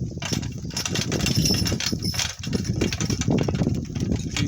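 Donkey cart jolting over rough ground: a continuous rattle and rumble of the cart and its wheels with irregular knocks.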